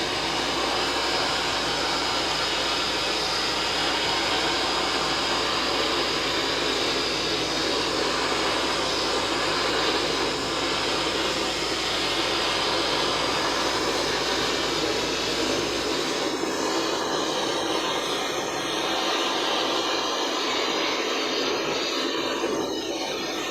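A torch flame hissing steadily as it chars the wooden beehive boxes for a shou-sugi-ban finish. The sound grows a little thinner about two-thirds of the way through.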